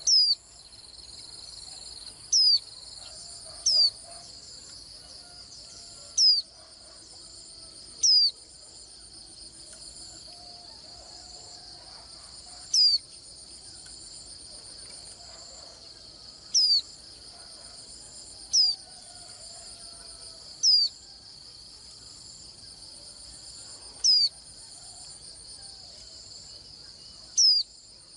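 A white-eye giving short, sharp, falling high-pitched calls, about eleven of them, one every two to four seconds, over a steady high drone of insects.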